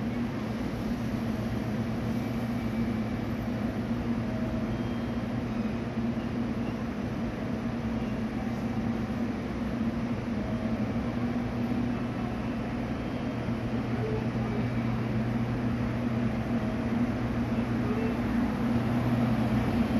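Train at a station platform: a steady low hum of a standing train, growing louder near the end as another train moves past close by.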